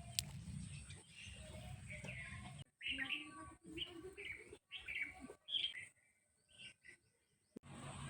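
Birds chirping in short, repeated high calls over a low steady rumble. The sound cuts out abruptly several times.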